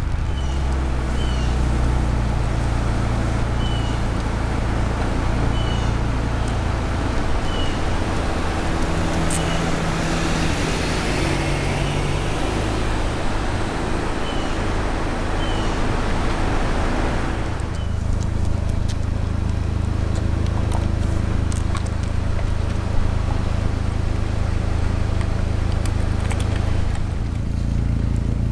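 Steady motor vehicle engine and road noise, with short high chirps repeating every second or two through the first half; the sound changes character a little after halfway.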